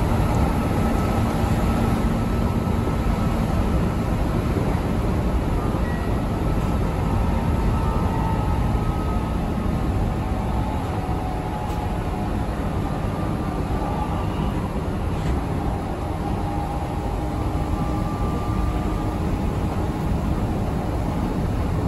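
Keihan 8000-series electric train running along the line: a steady, dense rumble of wheels on rail, with faint whines that come and go.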